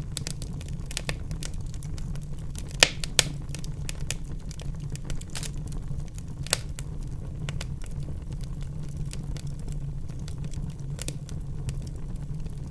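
Wood fire crackling in a fireplace: a steady low rumble under a constant scatter of small clicks, with two sharp pops about three seconds in and another about halfway through.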